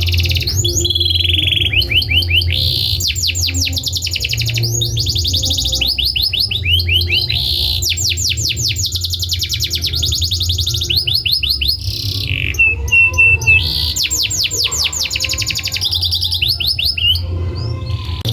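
Domestic canary singing a continuous song of fast trills and rolls, each phrase changing every second or two, with one held whistled note about two-thirds of the way through. A steady low hum runs underneath.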